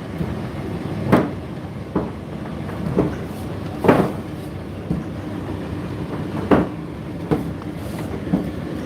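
Indesit IDC8T3 condenser tumble dryer running: a steady motor and drum hum with irregular knocks and thuds about once a second from the turning drum.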